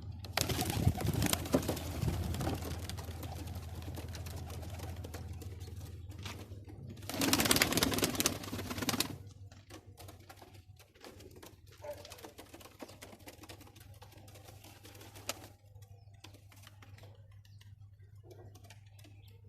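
Pigeons cooing among rustling and scattered clicks, with a louder burst of rustling noise about seven to nine seconds in.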